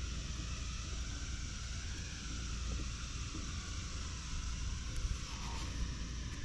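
Steady wind on the microphone out on open water: a low rumble with an even hiss, and a few faint ticks near the end.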